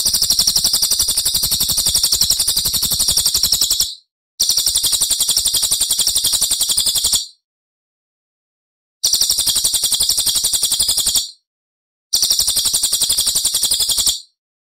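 Small songbird's rapid, high-pitched trill of fast repeated notes, a 'tembakan' (shooting) phrase from a bird-song tutor recording, heard as four bursts of two to four seconds with dead-silent gaps between them.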